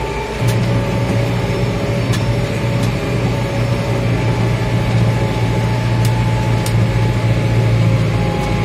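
Farmtrac 675DT tractor's diesel engine running steadily while pulling a plough through wet, heavy soil. About half a second in, its note steps up and grows louder, then holds steady.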